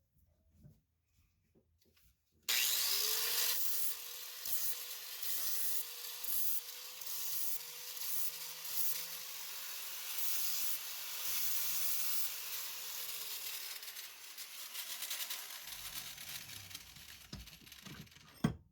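Electric grinder switched on about two and a half seconds in, its motor whine rising as it spins up and then holding steady while it grinds the steel gauge wheel arm clean for welding, the grinding noise swelling and easing with the pressure; it stops suddenly near the end.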